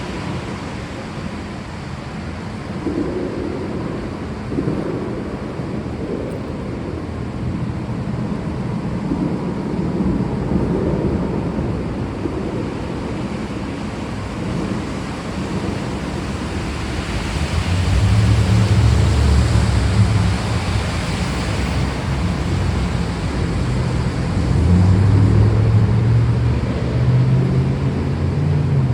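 Steady heavy rain, with low rolling thunder that swells about two-thirds of the way through and again near the end.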